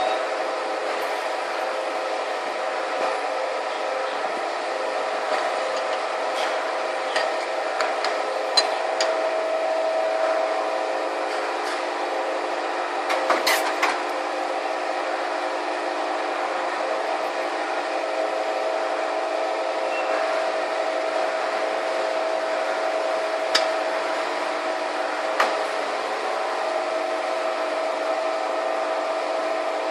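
Electric motor of a single-blade paper corner-rounding machine running with a steady hum, with a few sharp clicks scattered through.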